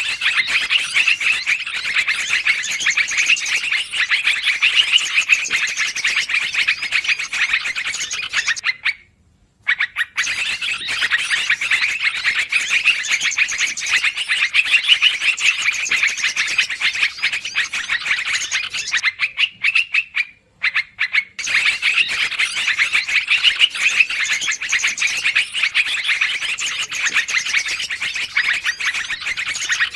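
Recorded lure call of yellow-vented bulbuls (trucukan) in busy, agitated chattering, a dense run of rapid chirps. It breaks off briefly twice and starts again, as a looped recording.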